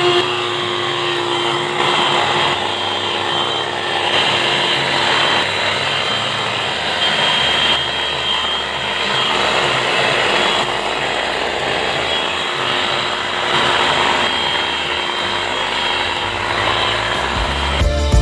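Bergmann Supersonic 12 V, 130 W handheld car vacuum cleaner running continuously: a steady motor whine over a rush of air.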